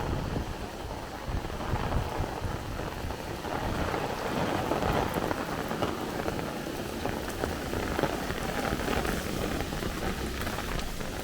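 Heavy downpour of rain pouring steadily onto the street, with gusts of wind buffeting the microphone in the first couple of seconds.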